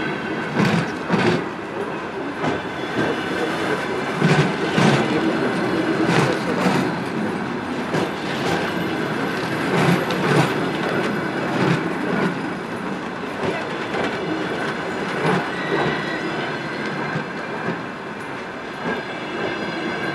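Passenger coaches of a departing express train rolling past, their wheels knocking over the rail joints in a steady clickety-clack of paired knocks about every second, over a continuous rolling rumble with a faint wheel squeal.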